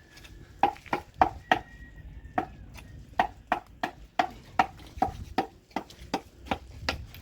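A run of about seventeen sharp knocks, unevenly spaced at two or three a second, each with a short ringing tone.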